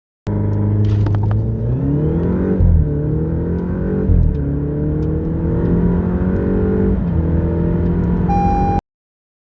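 Alfa Romeo Giulia Veloce Ti Q4's turbocharged four-cylinder engine, breathing through an aftermarket Ragazzon stainless steel exhaust, accelerating hard from a standstill. After a moment at idle the revs climb, then drop at gear changes about two and a half, four and seven seconds in. A short beep sounds near the end, just before the sound cuts off.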